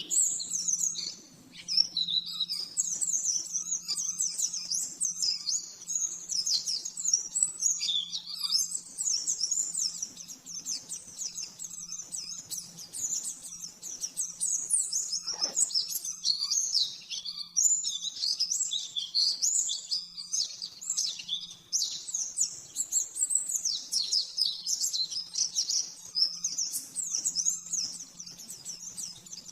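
White-eye (pleci) singing a fast, unbroken run of high twittering chirps and trills, the rapid-fire 'nembak' song, over a faint steady low hum.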